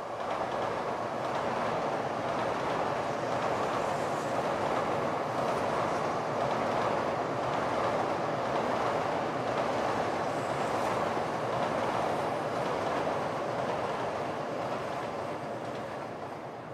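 N700 Series Tokaido Shinkansen bullet train passing at speed: a steady rushing rumble of wheels on rail that fades away over the last few seconds as the train moves off.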